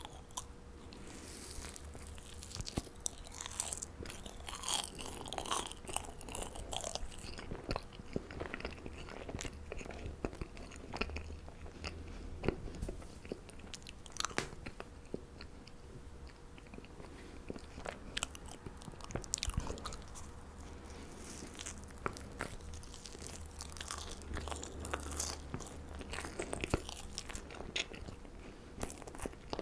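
Close-miked eating of marshmallows: irregular soft biting and chewing with frequent sticky, crackling mouth clicks, in a run of continuous chewing.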